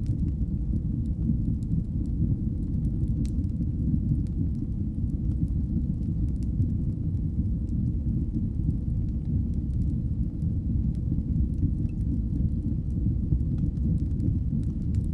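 Wood fire burning in a fireplace: a steady low rumble of the flames with sparse, faint crackles and pops.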